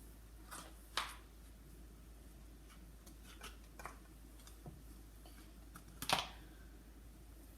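A few light clicks and taps from small objects being handled, scattered through, the sharpest about six seconds in.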